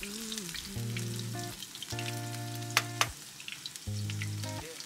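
Kimchi pancakes frying in shallow oil in a pan, the oil sizzling with sharp crackling pops, under a background song of held synth notes.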